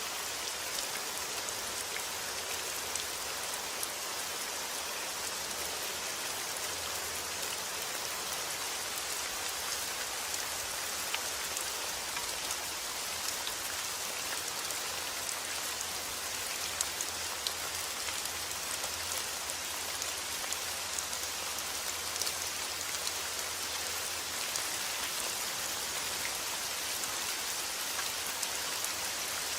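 Steady rainfall: a constant hiss of rain with many small scattered drop ticks on a surface.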